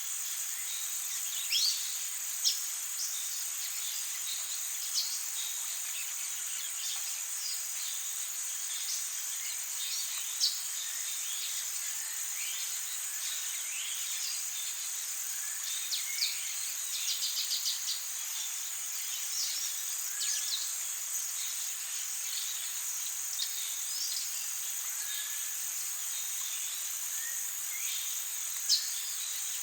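Amazon rainforest ambience: a steady high-pitched insect chorus, with many short bird calls over it, including a quick run of about seven notes about halfway through.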